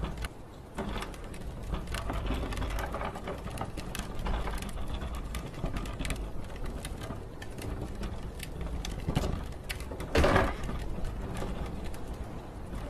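Wind rumbling on the microphone, with a constant rattling and clicking of loose things, and one louder clatter about ten seconds in.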